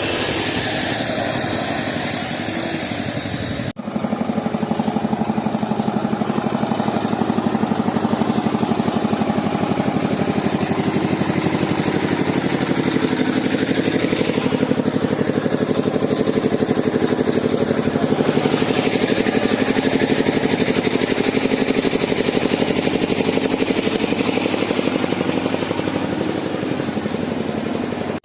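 A train's engine running steadily with a fast, even throb, broken by a brief cut about four seconds in.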